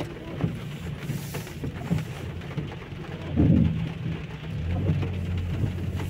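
Heavy rain falling steadily, under a low rumble, with a louder low rumble about halfway through.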